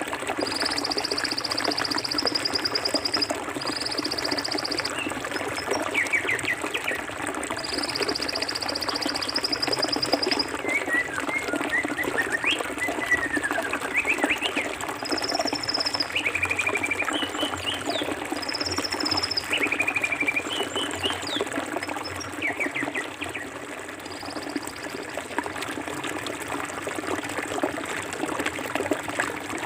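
Forest stream running steadily, with birds calling over it: a few high, fast trills in the first ten seconds or so, then scattered short whistles and chirps through the middle.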